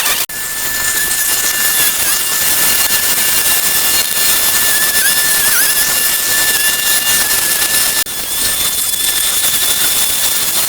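A machine running steadily: a loud rushing hiss with a high, steady whine over it. The sound cuts out briefly just after the start and again about eight seconds in.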